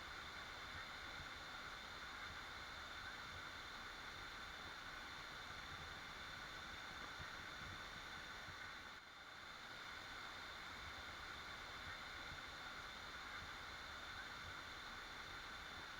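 Waterfall rushing in a faint, steady, even hiss, with a brief dip in level about nine seconds in.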